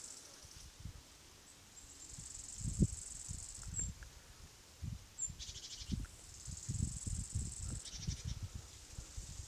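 Field insects chirring in high-pitched trills that come and go, with a pulsing, rattling trill about halfway through and another near the end. Irregular low thumps and rumbles sound underneath.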